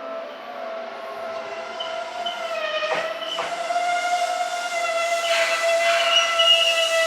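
Seibu 2000 series electric train running with a steady high whining tone and overtones that grows louder, with two sharp clicks about three seconds in.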